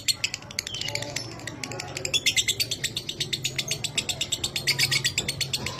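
Lovebird ngekek: a long, rapid chattering trill of sharp high notes, about ten a second, in bouts, loudest a couple of seconds in and again near the end. A faint steady low hum runs underneath.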